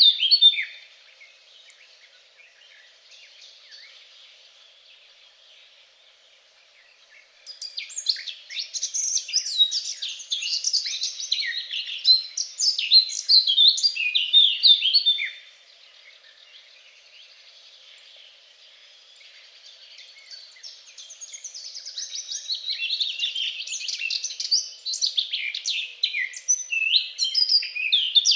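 Songbird singing in two long bouts of rapid, varied, high twittering notes, each lasting about eight seconds, with quiet pauses before and between them.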